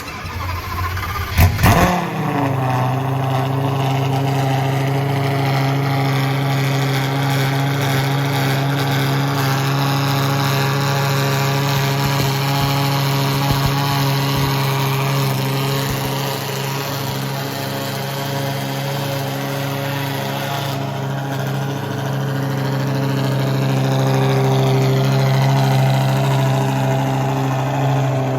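Lamborghini Gallardo Superleggera's V10 with aftermarket exhaust cold-starting. It catches with a loud flare about a second and a half in, drops back within a second, and settles into a steady cold idle.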